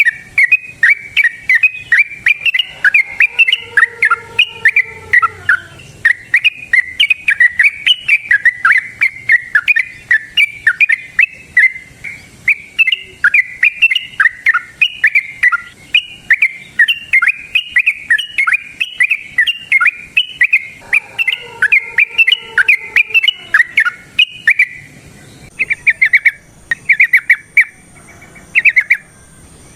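Yellow-vented bulbul (trucukan) singing a long, rapid, unbroken run of bubbly chirping notes, breaking into shorter bursts in the last few seconds.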